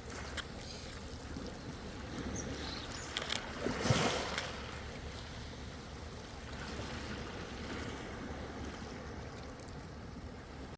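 Ocean waves washing on the shore over a steady wash of sea noise, with one wave breaking and surging about four seconds in.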